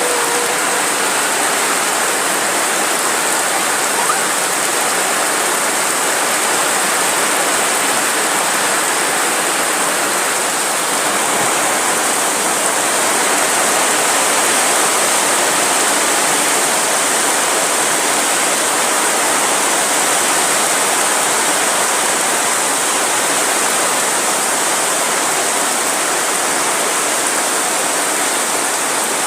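Torrential rain pouring down: a dense, steady hiss of heavy downpour.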